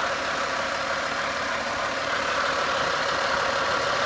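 Freshly overhauled Toyota 1FZ-FE straight-six idling steadily, with a little whine that the owner puts down to accessory belts that are too tight.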